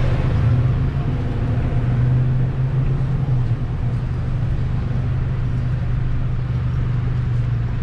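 Modified VW Golf R's turbocharged four-cylinder engine, with a catless downpipe and custom exhaust, running steadily at low speed with a low, even drone.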